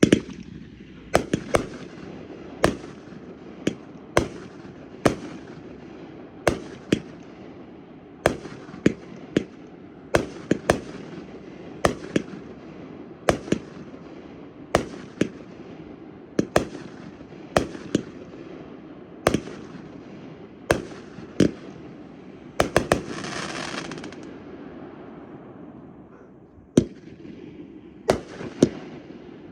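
Fireworks going off: a steady run of sharp bangs, roughly one a second, over a constant haze of noise. About two-thirds through, a quick cluster of bangs is followed by a hissing burst lasting about a second, then a short lull before the bangs resume.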